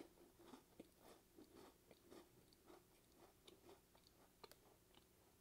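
Faint chewing of a salty cheese-filled sandwich cracker, with small, irregular crunches.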